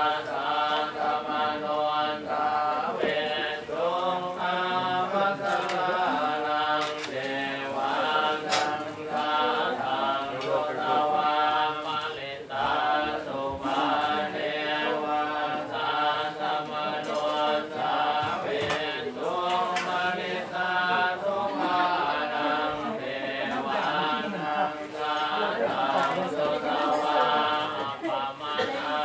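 Several voices chanting Buddhist verses in Pali together, a steady, near-monotone recitation with no pauses.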